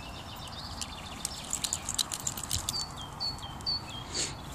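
A bird chirping a string of short, high, slightly falling notes, about two a second, in the second half. Before that comes a quick flurry of small clicks and rustles.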